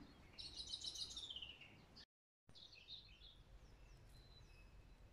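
Faint songbirds singing: a quick series of high notes that falls in pitch, running from about half a second to two seconds in, then scattered chirps and short falling whistles. The sound cuts out completely for a moment about two seconds in.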